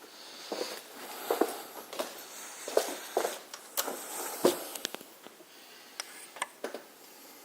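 Irregular light knocks and scuffs in a small room, footstep and handling noise, about one or two a second, with a sharper knock about four and a half seconds in.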